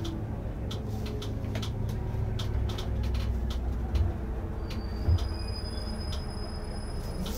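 Diesel engine of an Irisbus Récréo II coach idling with a steady low rumble and light irregular clicks. There are two short thumps about four and five seconds in, then a thin, steady high whistle from about five seconds on.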